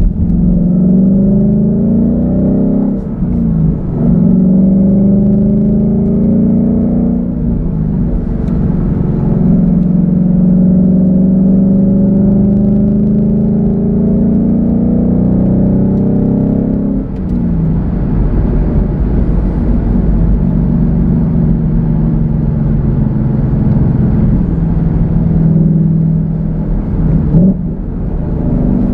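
2016 Ford Mustang GT's 5.0-litre V8 through a Borla S-Type exhaust, accelerating through the gears: the engine note climbs in pitch and drops back at each of several gear changes, then runs more steadily near the end.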